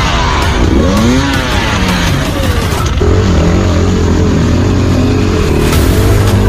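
Enduro motorcycle engines revving, their pitch sweeping up and down several times over the first three seconds, then running on at a steadier note.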